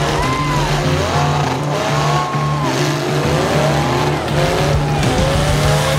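Demolition derby cars' engines revving up and down over and over, their pitch rising and falling, with tyre squeal as the cars push into one another. A steady low musical note plays underneath in even on-off blocks.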